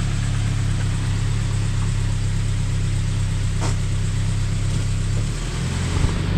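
Car engine running steadily with road noise, a constant low drone.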